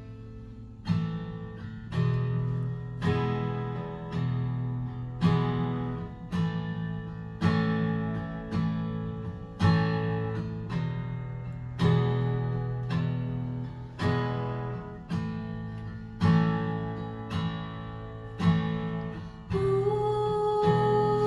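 Acoustic guitar strumming chords in an instrumental passage of a live song, one strong strum about every second. A held sung note comes in near the end.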